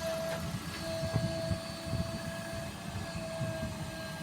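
A small motor running with a steady whine, which drops out briefly twice, over a low, uneven rattle.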